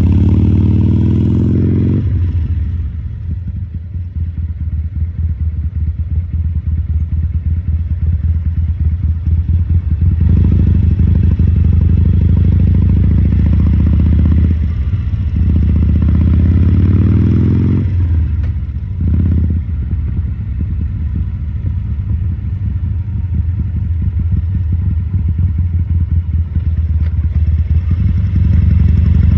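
2014 Harley-Davidson Sportster 1200 Custom's air-cooled Evolution V-twin running at low speed, with its deep, uneven firing pulses. It revs up several times, briefly at the start, then about 10 s in and again from about 15 to 18 s with a rising pitch, and eases back to a lower, steadier run in between. A short blip comes just after the 18 s drop, and it picks up again near the end.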